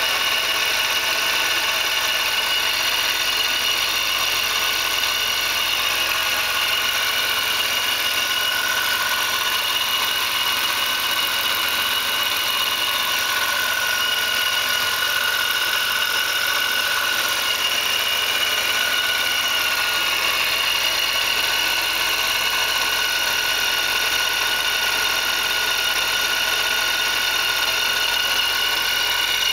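BMW Z4 M's S54 straight-six idling steadily just after its first start with a newly fitted belt-driven ESS supercharger. A steady high whine runs over the engine noise, which fits the new supercharger unit, still noisy before its first drive.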